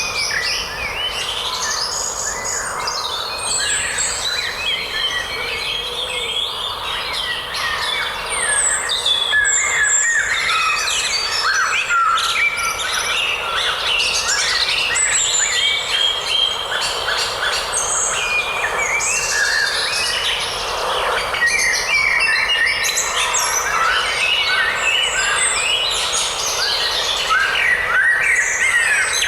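Forest birdsong: many birds chirping and singing at once, a dense overlapping chorus of short chirps and trills that runs steadily.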